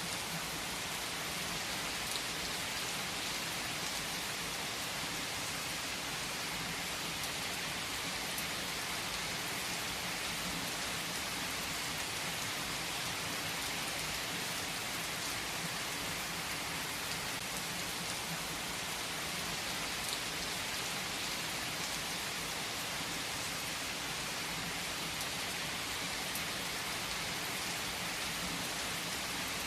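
Steady, even rain falling on a surface, an unbroken hiss with a few faint clicks.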